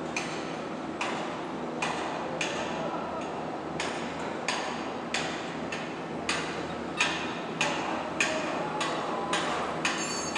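Steady hammering, about a blow and a half a second, each blow ringing briefly, over a steady background hum.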